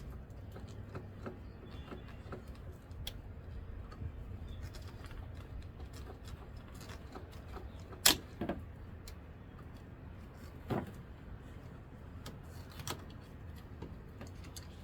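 Light clicks and small knocks of hand work on fuel and vacuum hoses and their fittings, with a sharper knock about eight seconds in, a second one just after, and two more near the end.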